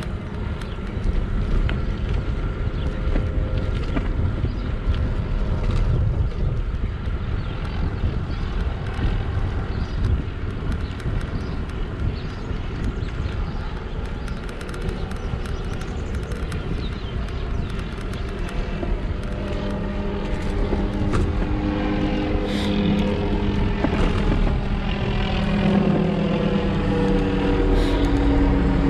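Wind buffeting the microphone and road rumble on a moving electric bike. In the second half an engine hum comes in and grows louder toward the end.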